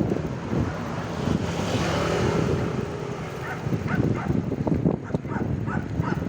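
Wind buffeting the microphone while riding a bicycle in road traffic, with a vehicle passing about two seconds in. From about halfway through, a quick run of short, sharp yelps repeats about three times a second.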